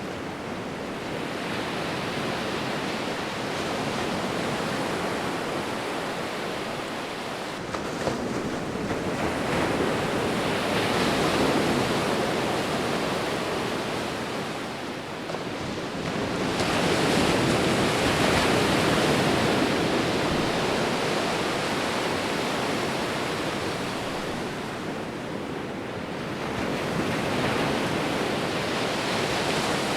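Sea waves: a continuous wash of surf that builds and fades in three slow surges.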